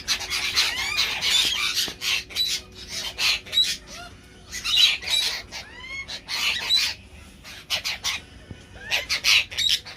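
A mixed flock of magpies, happy jacks and lorikeets squawking and calling over one another in a territorial squabble: harsh screeches with short rising whistled notes mixed in, coming in clusters with a couple of brief lulls.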